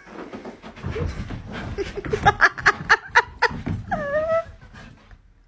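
A person laughing in quick, rapid bursts, ending in a short voiced sound about four seconds in.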